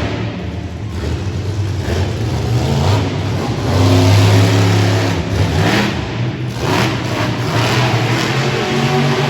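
Monster truck engine revving hard, its pitch rising and falling with the throttle. The engine is loudest about four to five seconds in.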